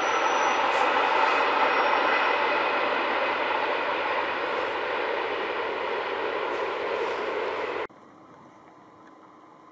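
Rhaetian Railway train running, a steady rushing noise of wheels on rails that fades slowly and cuts off abruptly about eight seconds in, leaving a faint background hiss.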